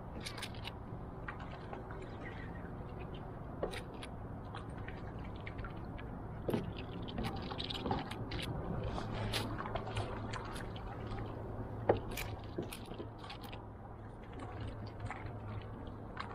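Swan feeding in shallow water: wet dabbling and small splashes from its bill, with scattered sharp clicks, the loudest about twelve seconds in.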